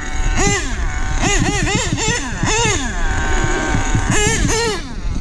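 Nitro engine of an HPI Savage 25 monster truck, a small glow-fuel two-stroke, revving in repeated quick throttle bursts. Each burst is a high whine that rises and falls, about eight in five seconds, with a steady rumble underneath.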